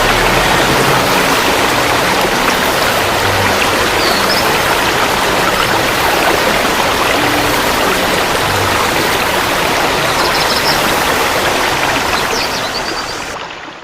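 Rushing water, a steady loud rush that fades out near the end.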